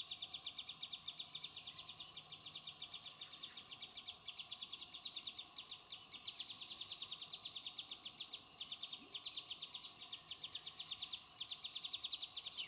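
A rapid, high-pitched pulsed chirping from a small animal, about ten pulses a second, repeating steadily.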